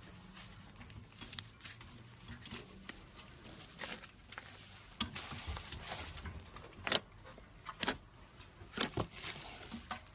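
Slime being squeezed and stretched by hand, giving irregular wet clicks and crackling pops, with a few louder pops near the end.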